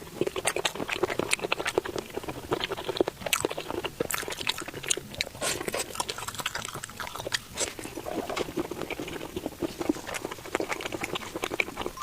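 Close-miked chewing and biting of deep-fried skewer food: a dense run of small crunches and mouth clicks.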